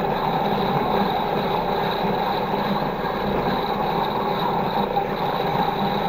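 Toy washing machine running, its small motor whirring steadily as the drum turns.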